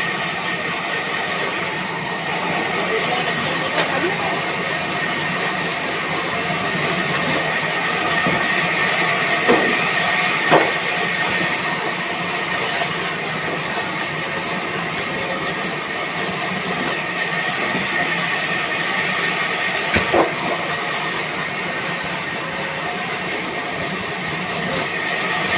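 Sawmill band saw machine running steadily, a constant whine over a hiss that swells and drops every few seconds, with a few sharp knocks.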